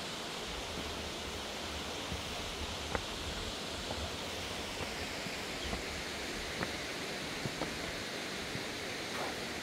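Steady rushing of water from the falls and stream along the trail, with a few faint, scattered ticks on top.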